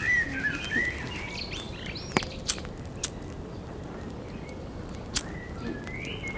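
Small birds chirping for the first second or so, then a few sharp clicks scattered through the rest over a low outdoor background.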